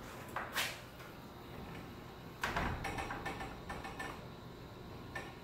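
Knocks and clicks from winding bars being worked in a garage door torsion spring's winding cone: a sharp knock about half a second in, another about two and a half seconds in, then a cluster of small clicks.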